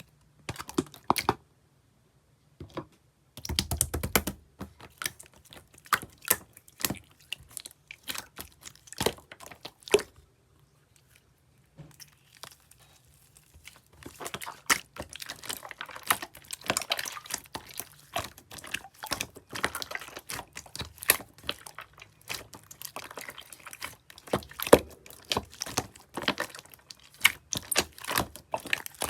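Slime being squished, poked and stretched by hand, giving sticky clicks and small pops. It comes in short bursts with brief pauses at first, with a dull thump about four seconds in, then turns into a dense, continuous run of clicking from about halfway.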